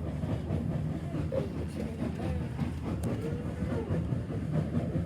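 Steam-hauled passenger train running along the track, heard from inside the carriage as a steady low rumble.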